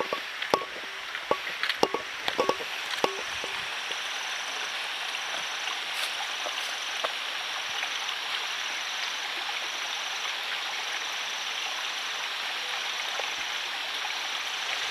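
Steady rush of falling and flowing water at a waterfall, with a run of sharp clicks and knocks in the first three seconds.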